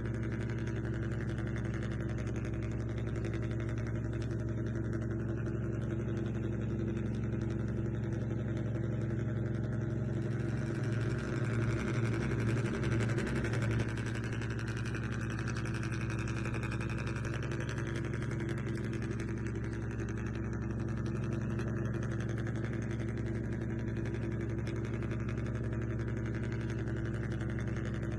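Engine sound of a remote-control vehicle idling steadily, with a short pulsing rise in level about eleven seconds in that lasts some three seconds.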